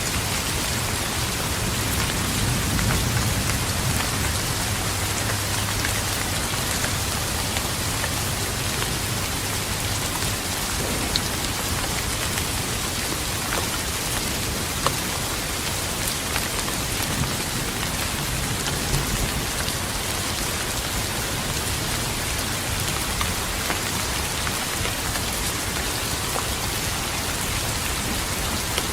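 Steady rain falling, with fine scattered drop ticks, and a low rumble of distant thunder rolling through the first ten seconds or so.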